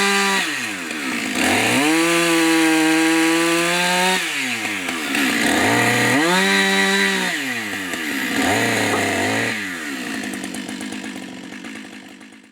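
Two-stroke chainsaw run at full throttle in three long bursts, its pitch dropping back between them, then a shorter, lower burst; after that it fades down and cuts off near the end.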